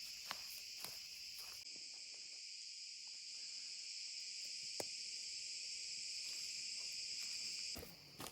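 Steady, high-pitched chorus of insects, with a few faint clicks; it fades out abruptly near the end.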